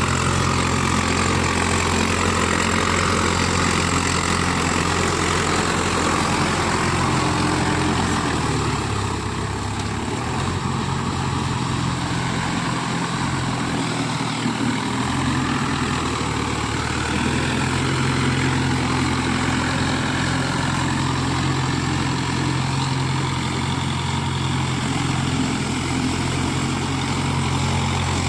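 Mahindra Yuvo Tech+ 575 DI tractor's diesel engine running steadily. The engine note shifts lower for several seconds in the middle, then returns to its earlier pitch.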